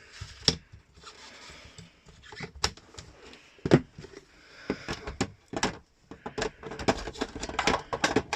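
Plastic parts of a GTech AirRam cordless upright vacuum cleaner being handled and fitted together. It makes a string of irregular clicks and knocks, the loudest a sharp knock about halfway through, and they come faster over the last couple of seconds.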